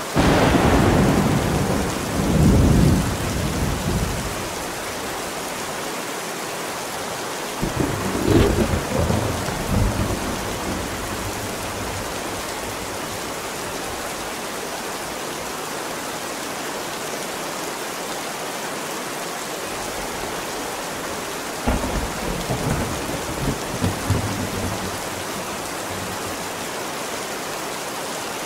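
Thunderstorm: steady rain hissing throughout, with three rolls of thunder, one at the very start that rumbles for about four seconds, a second about eight seconds in, and a third about twenty-two seconds in.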